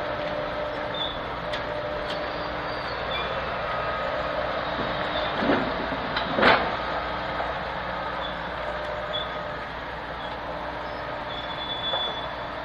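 Slow rail work train, a hi-rail truck hauling open hopper cars, running steadily along the track, with two loud knocks about five and a half and six and a half seconds in.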